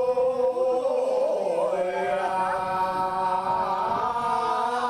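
Voices singing a Korean traditional field-work song (deulsori), chanted in long held notes, the pitch shifting upward about two seconds in.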